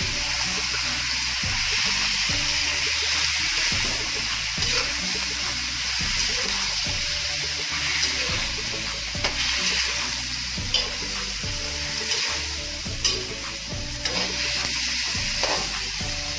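Squid sizzling in oil with sautéed ginger, onion, garlic and tomato in an aluminium wok while a metal spatula stirs and turns it. A steady hiss of frying, with occasional sharp taps and scrapes of the spatula against the wok.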